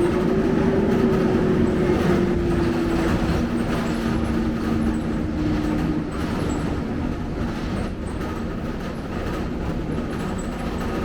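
Scania K270UB single-decker bus on the move, with steady road and drivetrain rumble. A pitched whine rises slightly in the first second, holds, then fades out over the next several seconds.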